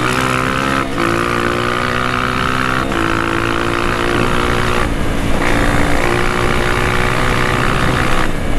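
Honda CRF230F dirt bike's single-cylinder four-stroke engine running under way on a trail, holding a steady note that breaks off briefly about every two seconds.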